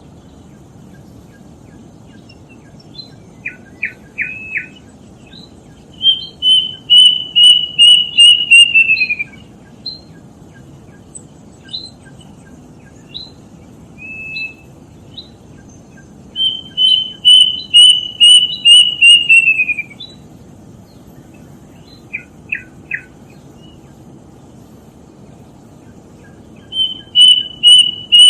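Kedasih, a small cuckoo, singing: three runs of about eight clear repeated whistles, each run falling in pitch at its end, with short single chirps between the runs.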